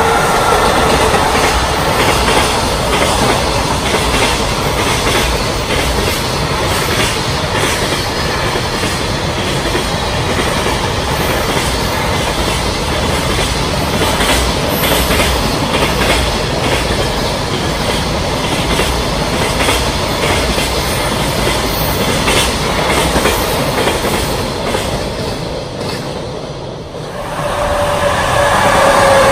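Long container freight train passing at speed behind an electric locomotive: a steady rumble with wheels clicking over rail joints, and the locomotive's motor whine falling away in the first second. About 27 seconds in the noise dips briefly as the last wagons go by, then the next freight train's electric locomotive comes in with a rising whine.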